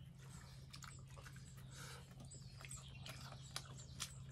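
Faint chewing and small mouth clicks of people eating steamed pork momos by hand, over a steady low hum.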